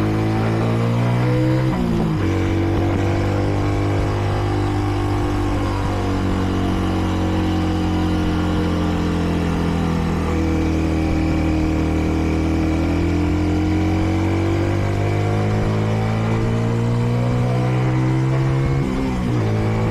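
Kreidler Dice CR 125 motorcycle engine under way: the revs climb, drop at a gear change about two seconds in, hold fairly steady while cruising, then climb again and drop at another gear change near the end.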